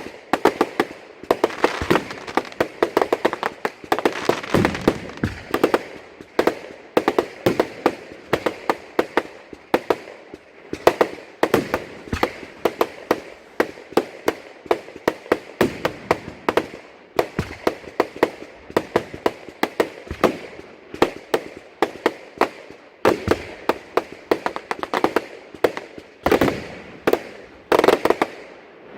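Fireworks going off in rapid volleys of sharp bangs and crackles, many a second, with short lulls between volleys.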